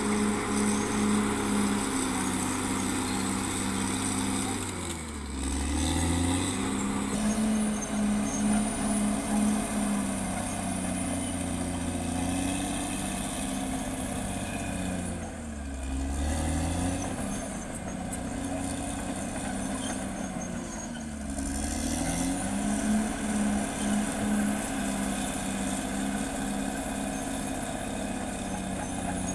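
Caterpillar D6R XL bulldozer's diesel engine running at work. Its pitch drops and recovers three times, about 5, 15 and 21 seconds in, as the engine takes load or the dozer changes direction.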